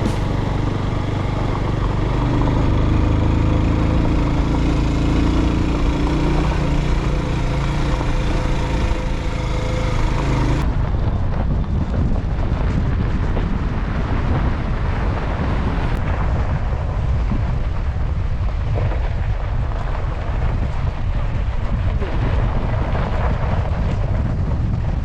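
A vehicle engine running on the road with heavy wind rumble on the microphone, its pitch shifting as the revs change. About eleven seconds in the sound changes abruptly to a mostly wind-like rumble.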